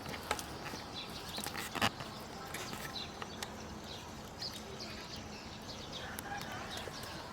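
Faint clucking of chickens, with scattered light clicks and taps; a sharper tap comes a little under two seconds in.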